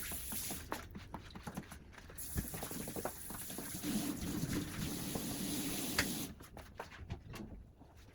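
Running water with short clinks and knocks of dishes and kitchen things being handled. The water stops about six seconds in, leaving a few fainter clicks.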